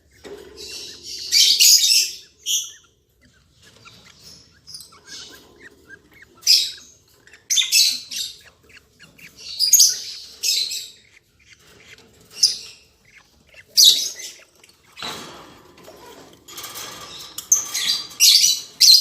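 Lovebirds giving short, harsh, high-pitched chirps in repeated bursts every second or two. A broader rustling stretch comes in about fifteen seconds in.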